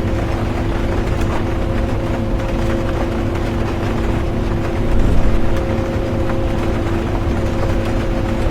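Interior of a moving bus: steady engine and road rumble with a constant droning hum, scattered light ticks of rain over it, and a brief louder rumble about five seconds in.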